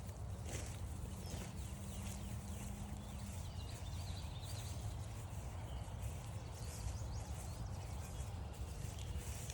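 Footsteps walking on a grassy forest trail, with a few faint bird chirps in the background and a low steady hum that stops about three seconds in.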